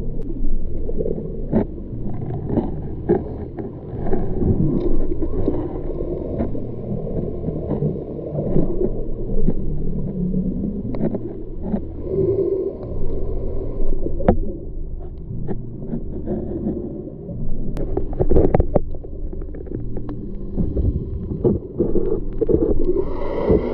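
Muffled, rumbling water noise heard underwater, with gurgling bubbles and scattered sharp clicks and knocks.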